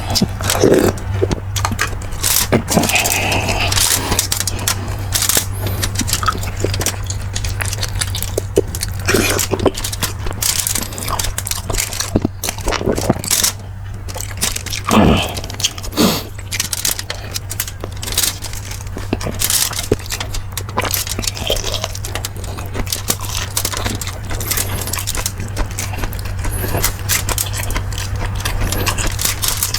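Eating a bowl of beef marrow stew: irregular clinks and scrapes of a utensil against the bowl and bones, with chewing, over a steady low hum.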